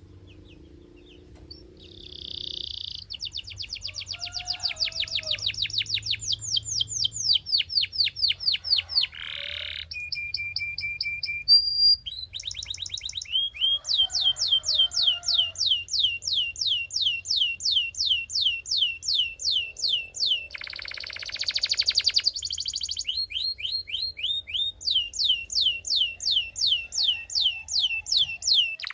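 Belgian canary singing a long song that starts about two seconds in: runs of rapid, evenly repeated falling notes, broken by a buzzy note, a short steady whistle and, about two-thirds through, a harsh rattling phrase.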